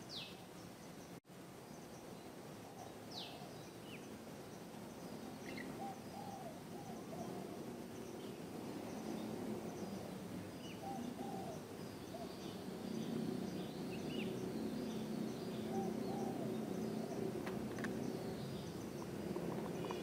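Wild birds calling together. Low cooing phrases, fitting a spotted dove (tekukur), repeat every few seconds, with a few high, thin, falling whistles and faint chirps from smaller birds. A low background noise grows louder in the second half.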